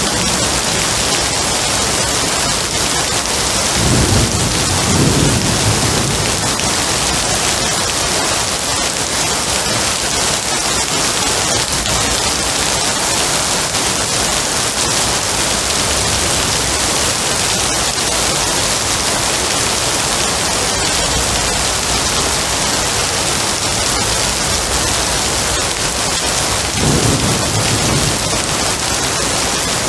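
Steady heavy rain hissing without a break, with low rolls of thunder twice: once about four seconds in and again near the end.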